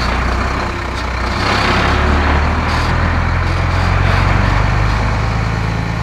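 Heavy truck engines running steadily, a low rumble with an even rushing noise over it.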